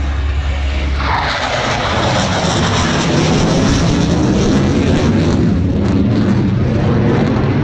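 Jet engine noise from a Eurofighter Typhoon's twin Eurojet EJ200 turbofans, swelling suddenly about a second in and then staying loud and steady.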